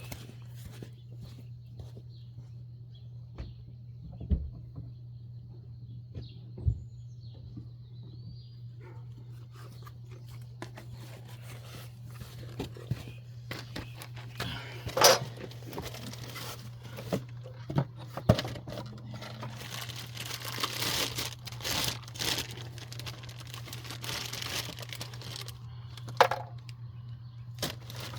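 Packaging rustling and tearing as a new wheel hub is unpacked, with scattered clicks and knocks of handling, over a steady low hum. The rustling is densest from about halfway through to near the end.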